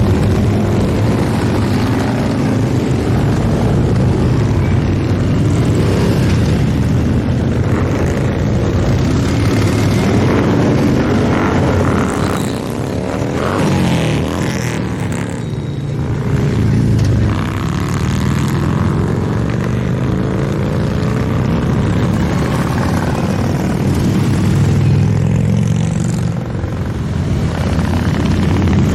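A continuous stream of motorcycles riding past, many engines running at once, the pitch of individual bikes sweeping up and then down as each goes by. The sound eases briefly about halfway through.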